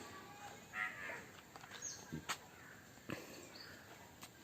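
Faint bird calls, with a harsh call about a second in, and two short sharp clicks near the middle.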